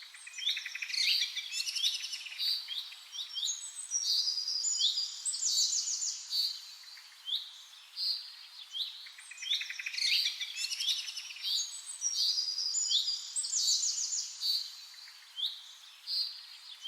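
Small songbirds chirping and twittering: many short, high, overlapping calls, rising notes and fast trills, with the same run of calls coming round again about halfway through.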